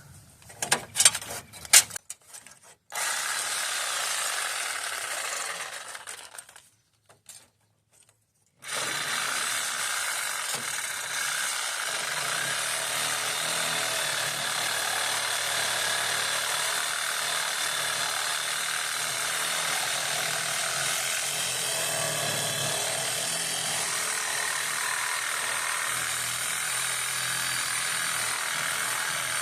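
Power saw cutting into a rusted steel support, its blade worn. It runs from about three seconds in, stops about six seconds in, then starts again and runs steadily for the rest.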